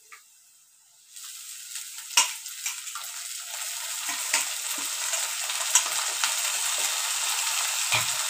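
Chopped radish leaves tipped into hot oil in a kadhai, sizzling. The frying starts about a second in and grows louder, with a few sharp clicks and knocks along the way.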